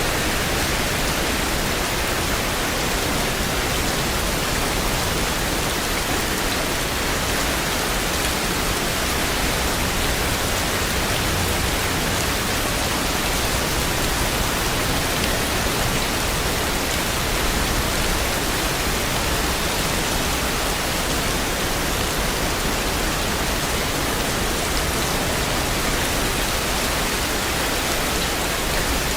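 Steady rain, falling as an even, unbroken hiss with no single drops standing out.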